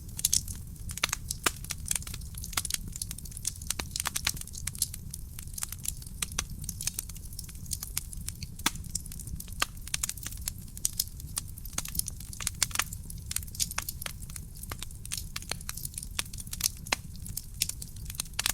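Wood fire burning in a fireplace: dense, irregular sharp crackles and pops over a steady low rumble of the flames.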